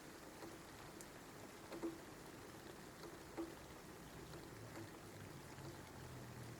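Faint steady rain with single drops falling about once a second, one a little louder near 2 s in. A low hum comes in about two-thirds of the way through.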